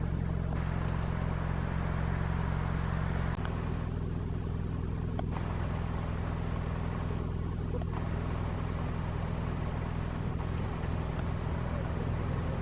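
A car engine running steadily, heard from inside the cabin as a low, even drone; it dips slightly about three seconds in.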